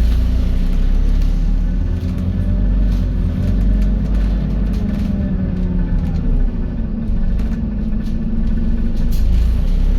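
Scania N280UD double-decker bus heard from inside the cabin: a steady low engine rumble, with the drivetrain's pitch slowly rising and falling as the bus drives along.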